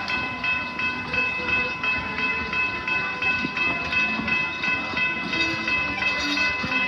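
Railroad crossing bell ringing with a quick, even, repeating strike while the train passes.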